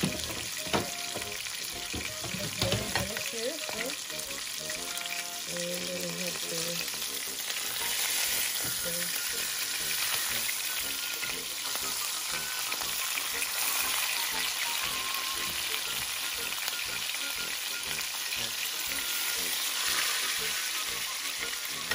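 Salmon steaks sizzling steadily as they fry in oil in a nonstick pan, a little louder from about eight seconds in, with a few sharp clicks in the first three seconds.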